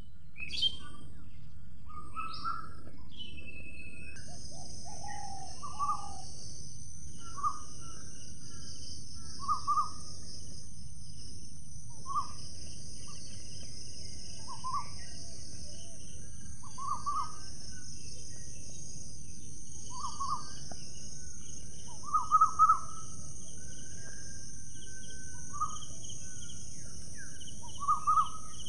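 Outdoor garden ambience: a bird gives short calls about every two seconds, a few of them louder about three-quarters of the way through. A steady high-pitched drone and a low hiss run underneath.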